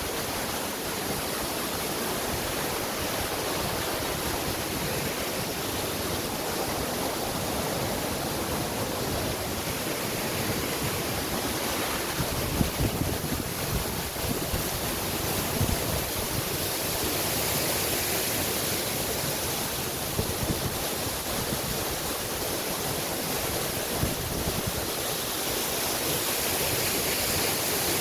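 Waterfall running full after heavy rain, a steady rush of falling water.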